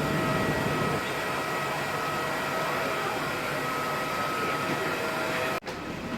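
Steady airliner cabin noise: a constant rushing hum with a high whine held on a few steady pitches. It cuts out abruptly for an instant near the end and resumes a little quieter.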